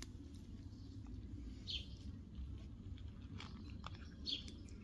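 Cats chewing and crunching dry kibble, with scattered small crunches. Two short high chirps sound over it, about two seconds in and again near the end.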